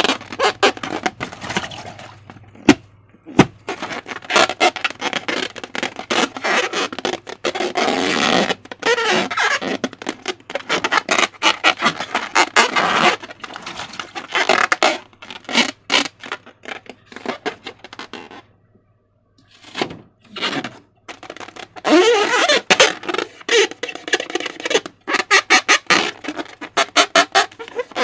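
Slime being squeezed and stretched by hand, with rubber balloons being handled: sticky crackling, clicking and squelching, irregular and close, with a couple of brief pauses after the middle and some rubbery squeaks near the end.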